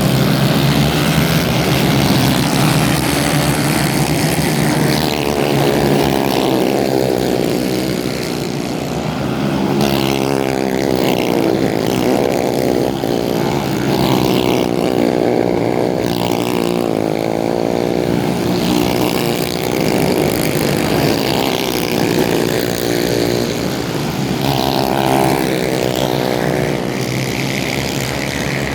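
Several racing kart engines running together, their pitch repeatedly rising and falling as the karts accelerate and lift off around the track.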